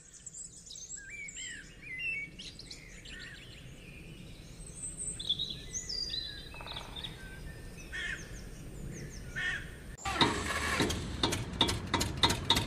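Small songbirds chirping and singing in quick, gliding calls. About ten seconds in, an engine-like sound starts abruptly and runs with a steady knocking beat of about four knocks a second, louder than the birds.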